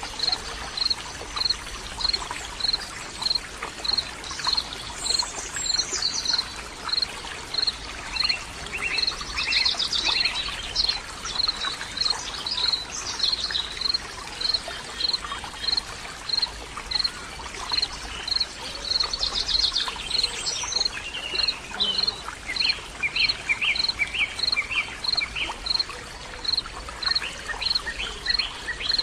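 Outdoor nature ambience: birds singing in varied short phrases, over a high chirp that repeats evenly about twice a second and a steady hiss.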